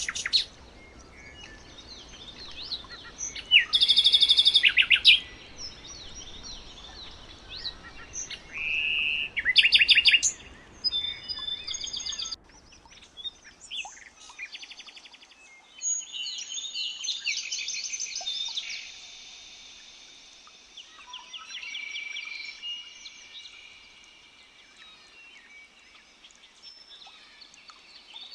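Several wild birds singing and calling together: overlapping chirps, short whistles and fast trills, the loudest trills about 4 and 10 seconds in. A low background hiss under the birdsong stops abruptly about halfway through.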